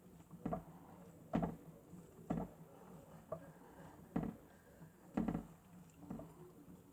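Miele W1 toy washing machine running its wash cycle: a faint small-motor hum with a soft knock about once a second as the drum turns.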